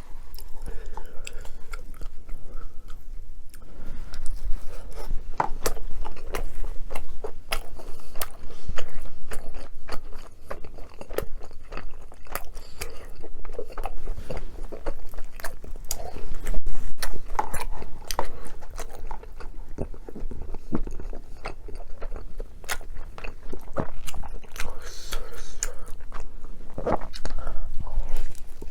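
Close-miked eating: biting and chewing food with many small irregular crunches and crackles throughout.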